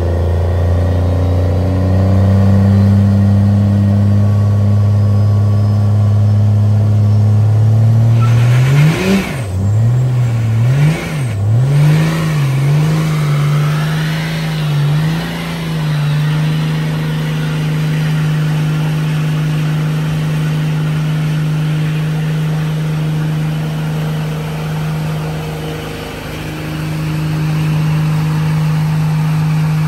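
Cummins-swapped Ford pickup's diesel engine revving hard in a burnout. The engine note climbs, surges up and down several times with a rush of noise, then holds at a steady high rev.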